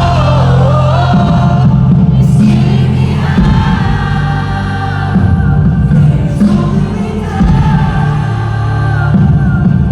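Live band music at a concert, loud, with heavy sustained bass and sung vocals, many voices singing along.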